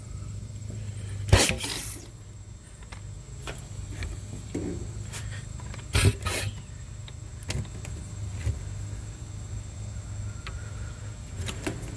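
Mighty Pump hand pump drawing suction on a stopped-up air-conditioner condensate drain line: two loud, short double strokes, about a second in and again about six seconds in. Lighter clicks come between them, over a steady low hum.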